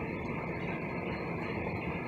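Steady rain falling at night, an even, unbroken wash of noise.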